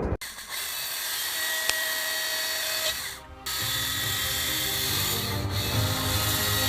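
Chainsaw running and cutting into a wood log, a steady dense buzz broken by a few short drops in level.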